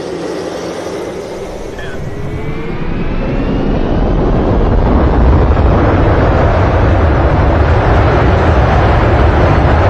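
Airliner cabin noise during the landing: the roar of engines and rushing air builds over about five seconds, with a faint rising whine early on, then holds loud until it cuts off suddenly.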